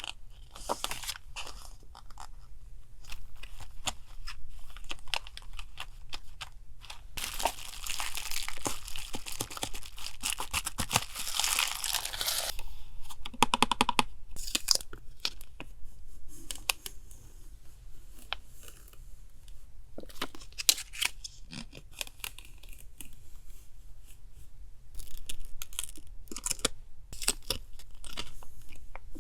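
Paper journaling supplies being handled: crisp rustling, crinkling and small clicks. About seven seconds in comes a longer tearing or crinkling stretch of about five seconds, followed by a quick run of ticks.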